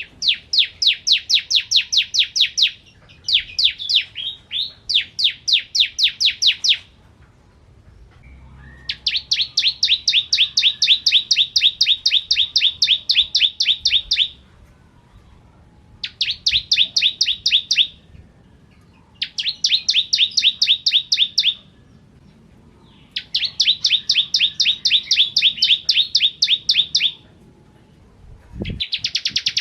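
Bar-winged prinia (ciblek kristal) singing: bouts of a fast, evenly repeated high chipping trill, each two to five seconds long, with short pauses between.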